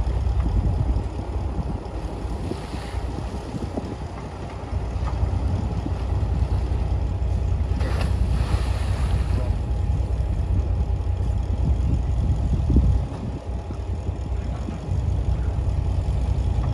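Diesel engine of heavy earthmoving machinery running, a low rumble that rises and falls, easing off twice.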